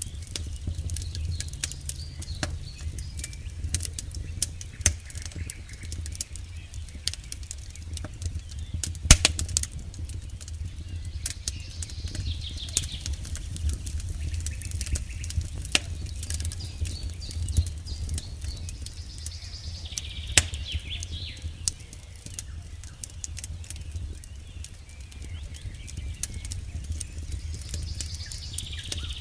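Campfire crackling, with frequent sharp pops and snaps, the loudest about nine seconds in, over a steady low rumble. Faint high chirps come and go a few times.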